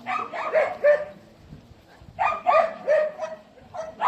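A dog barking in quick runs of three or four barks, with a pause of about a second between runs.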